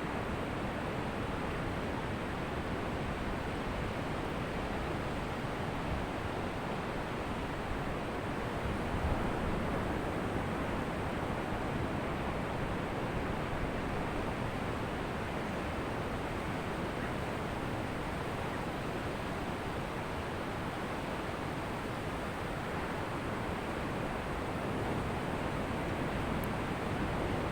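Ocean surf on a beach: a steady wash of breaking waves, swelling slightly about nine seconds in and again near the end.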